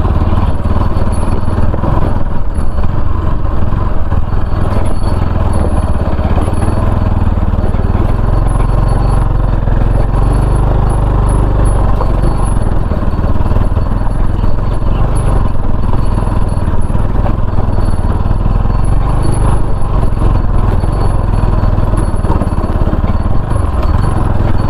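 Motorcycle running while being ridden over a rough, unpaved road, heard as a loud, steady low rumble.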